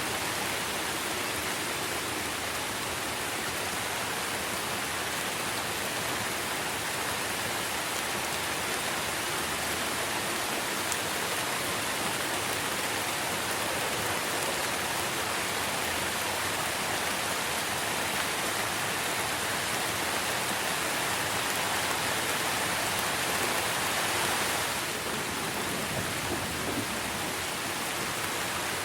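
Steady rain falling on tree leaves, a dense even hiss that swells slightly and eases a little about 25 seconds in.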